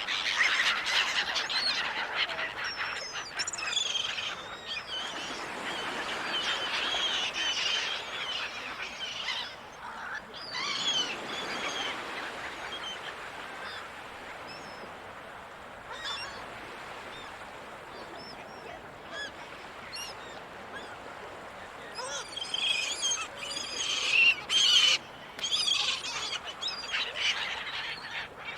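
Gulls calling, several at once, in repeated bouts of short wavering cries over a steady background hiss. The calls are densest in the first dozen seconds and again from about 22 to 27 seconds in.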